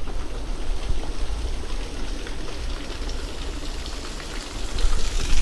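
River water running: a steady rushing with an uneven low rumble underneath.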